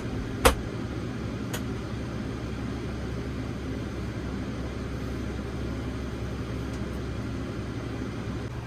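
A steady low mechanical hum, with one sharp click about half a second in.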